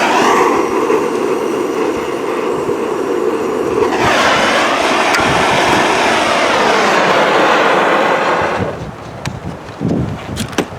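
Strong wind buffeting the microphone in a loud, sustained rush that drops away sharply about nine seconds in, leaving a few soft knocks and handling sounds.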